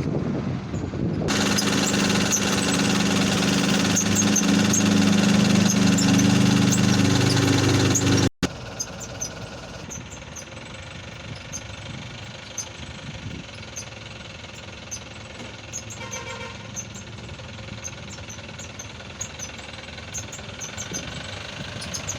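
Eicher 11.10 truck's diesel engine running steadily, loud and close from about a second in. At about eight seconds it cuts off abruptly, and a much quieter steady running noise with faint ticking follows.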